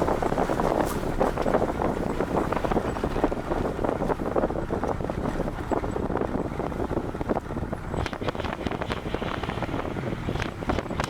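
Wind buffeting the microphone of a camera on a moving car, over a steady rush of road noise.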